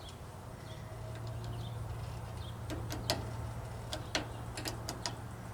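A series of sharp metallic clicks and taps, about half a dozen in the second half, from hand work on the snap ring of a skid steer hydraulic cylinder, over a steady low hum.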